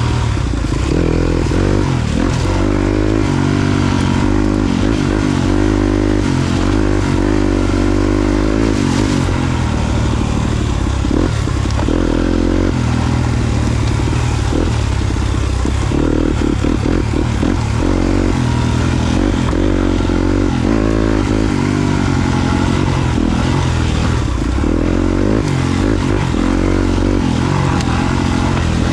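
Yamaha YZ250FX dirt bike's 250cc four-stroke single-cylinder engine running under trail riding, its note rising and falling constantly as the throttle opens and closes.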